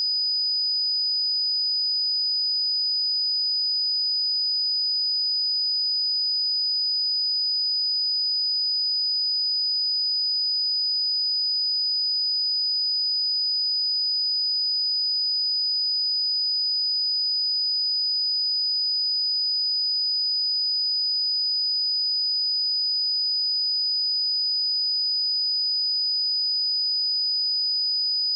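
A single pure sine-wave test tone at 4975 Hz, a steady high-pitched whistle held at one constant pitch and level.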